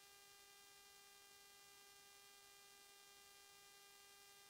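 Near silence: only a faint, steady electrical hum, one tone with its overtones.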